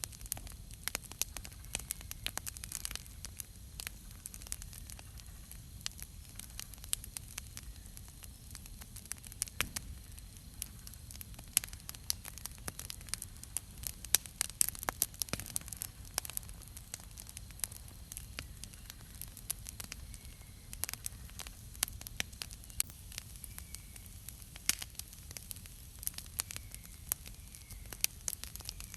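Campfire wood burning, with irregular sharp crackles and pops throughout over a soft low rumble.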